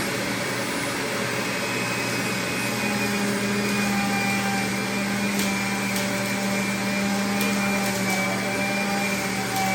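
Electric juicer motor running steadily at full speed while juicing cucumbers, a low hum under a high whine, with a few faint ticks.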